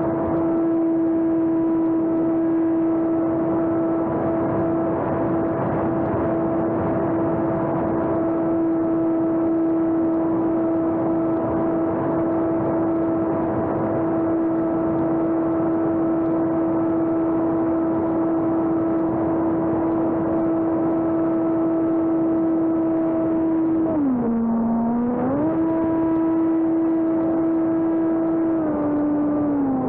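Electric motor and propeller of a homemade radio-controlled airplane, a steady whine over the rush of wind. The pitch dips briefly and comes back about three quarters of the way through, then steps lower near the end as the throttle changes.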